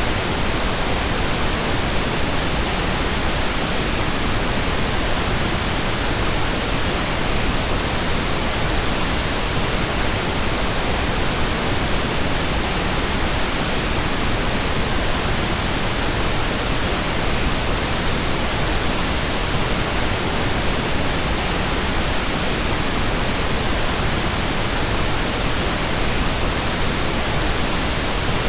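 Steady, unchanging pink noise: an even, hissing rush spread across all pitches, with no events or changes.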